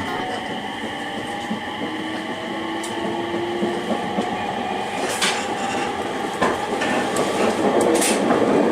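Passenger train running on the rails: a steady rumble with a few faint steady tones and sharp clicks from the wheels about five, six and a half and eight seconds in, growing a little louder near the end.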